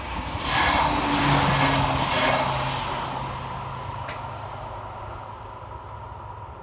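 A train passing the level crossing: its running noise, with a low engine tone, swells to a peak within the first couple of seconds and then fades away as it leaves. A single sharp click comes about four seconds in, as the crossing barriers start to lift.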